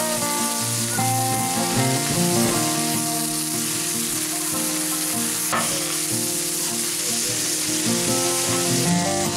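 Smashed potatoes and hamburger steaks sizzling steadily on a hot Blackstone flat-top griddle, with a single sharp knock about five and a half seconds in. Background music with a melody plays under the sizzle.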